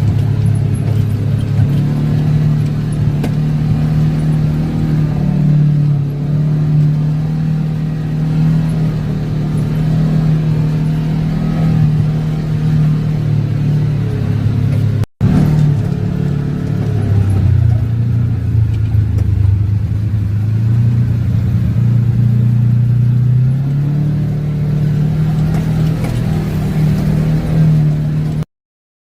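Off-road vehicle's engine running steadily at low speed, heard from on board; its pitch drops for several seconds past the middle and then rises again. The sound cuts out briefly about halfway through and stops just before the end.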